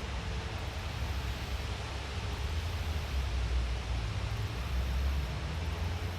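Forest ambience: a steady even hiss with a low rumble underneath that swells a few times.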